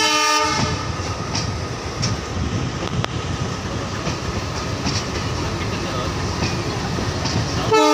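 Train running noise heard from on board: a steady low rumble with occasional wheel clicks over rail joints. A train horn sounds briefly at the start and starts again right at the end.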